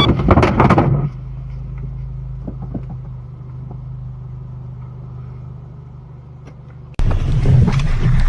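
A loud, noisy clatter during the first second, typical of a car collision, then a steady low vehicle hum that slowly fades. About seven seconds in it switches abruptly to loud engine and road noise.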